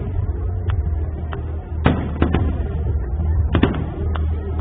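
Fireworks shells bursting in sharp bangs: a cluster about two seconds in, another about three and a half seconds in, and a few fainter pops, over a steady low rumble.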